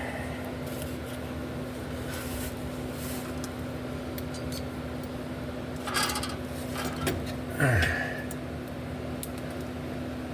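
Metal hand tools clinking and scraping as they are worked against a vehicle's frame, over a steady low hum. A cluster of clicks comes about six seconds in, and a short creak falling in pitch just before eight seconds.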